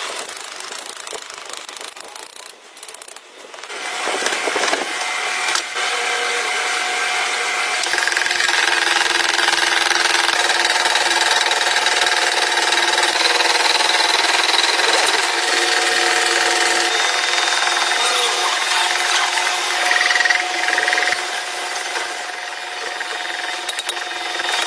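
Power tool running steadily under load: a motor whine with a rasping noise over it. It drops away briefly about three seconds in, then picks up again and keeps going.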